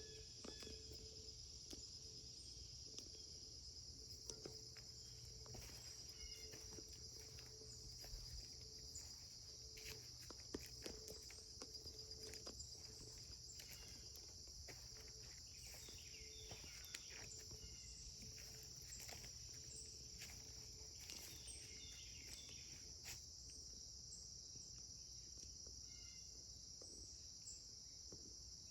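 Faint, steady high-pitched insect chorus, typical of crickets, with scattered light clicks and rustles.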